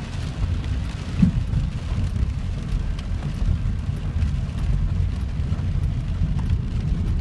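Steady low rumble of a moving car heard from inside the cabin, with rain ticking on the roof and windshield during a thunderstorm.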